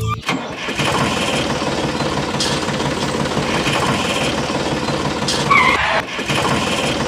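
A small engine running steadily, with a brief dip about six seconds in.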